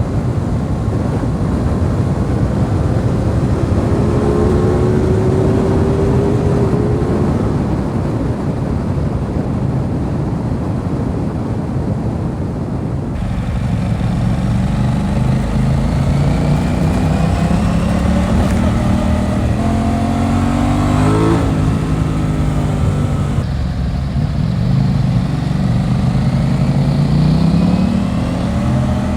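Aprilia RS 660 parallel-twin engine accelerating hard, its pitch climbing, falling off sharply about two-thirds of the way through, then climbing again. Wind rumbles on the microphone throughout.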